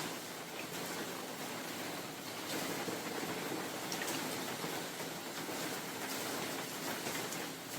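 Steady rain falling in a forest, with wind, a dense hiss with faint scattered drop ticks.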